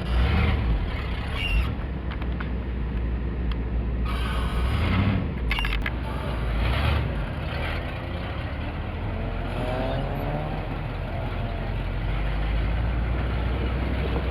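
Car engine and road noise heard from inside the cabin while driving, a steady low rumble, with a short rising tone about ten seconds in.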